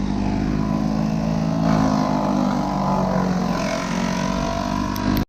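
An engine running steadily at a constant speed, with an even, unchanging drone. It stops abruptly at the very end.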